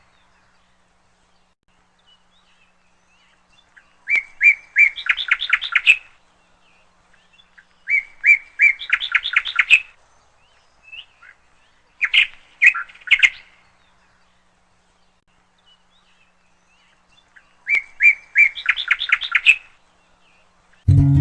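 A songbird singing the same short phrase over and over, about every four seconds: a few separate notes running into a quick trill. Acoustic guitar music starts at the very end.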